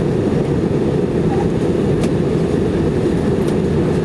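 Airbus A319-115 cabin noise in flight during descent: a steady, loud rumble of its CFM56 engines and the airflow over the fuselage, heard from a window seat beside the wing.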